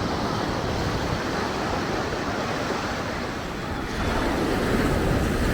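Steady mix of road traffic and breaking surf, with wind noise on the microphone. It grows a little louder about four seconds in.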